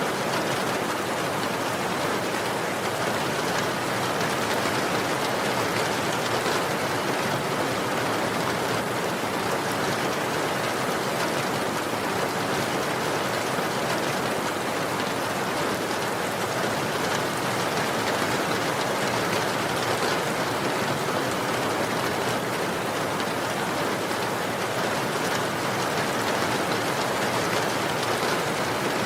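Steady rain falling, an even hiss of many drops on a surface with no pauses or changes.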